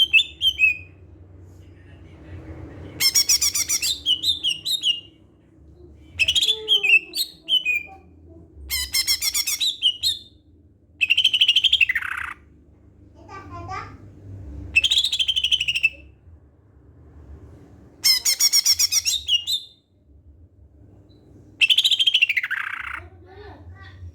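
Cucak hijau (green leafbird) singing in bursts of a second or so every few seconds, made of fast trills and chattering notes. Twice a burst ends in a long falling whistle.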